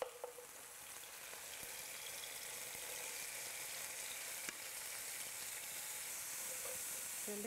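Shredded potato strips going into hot oil in a frying pan, sizzling with a steady hiss that slowly grows louder as more strips slide in, with a faint click or two.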